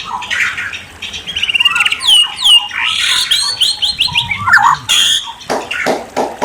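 A murai songbird singing a varied, loud song of clear whistles, steeply falling notes and fast trills, with a run of harsh, rasping notes about five seconds in.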